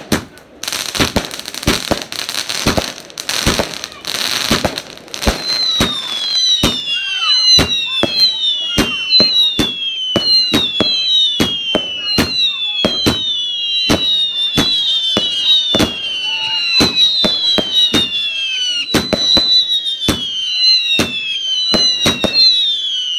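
Fireworks going off: rapid bangs with crackling for about the first five seconds. Then comes a long run of whistling shots, each a falling whistle, more than one a second, mixed with sharp bangs.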